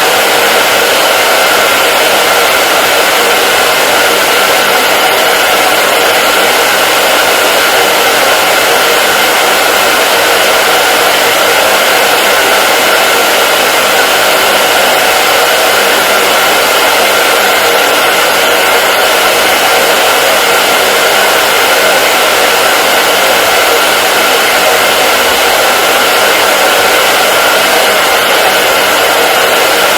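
Hair dryer running continuously at a steady pitch and level: a loud, even blowing hiss with a faint motor hum, used as white noise.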